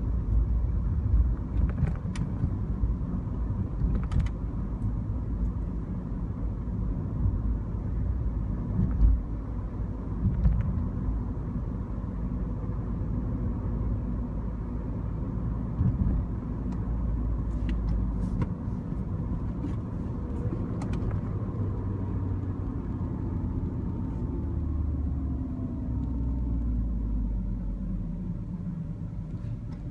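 Manual Mini Cooper driving along: steady engine and road rumble with a few short clicks. Over the last several seconds the engine's pitch slowly falls.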